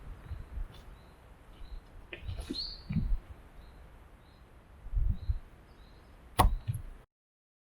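Faint bird chirps repeating about twice a second over background hiss, with several low thumps on the microphone and a single higher chirp about two and a half seconds in. A sharp click comes near the end, and then the sound cuts off.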